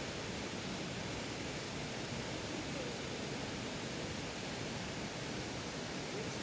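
Waterfall making a steady rushing noise of falling water.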